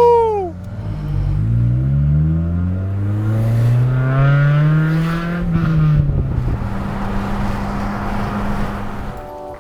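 Honda Civic Si four-cylinder engine accelerating hard, its pitch climbing for several seconds, then dropping at a gear change a little past the middle and running steadier. The exhaust is loud because of a large hole rusted through it.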